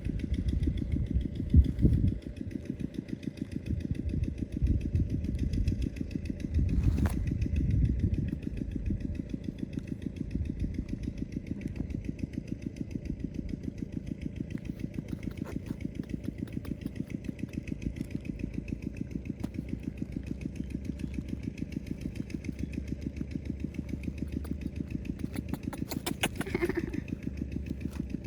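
A small engine idling with a steady, even pulse, with some louder rumbling in the first several seconds.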